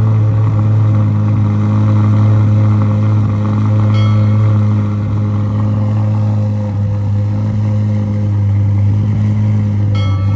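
2023 Corvette C8 Z06's 5.5-litre flat-plane-crank V8 idling steadily just after being started, its pitch settled and even. A short high beep sounds about four seconds in and again near the end.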